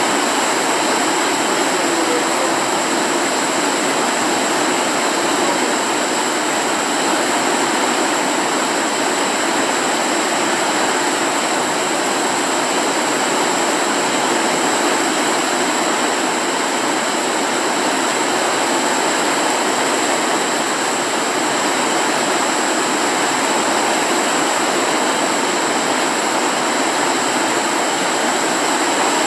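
Floodwater rushing, a loud steady noise that starts suddenly and holds without a break.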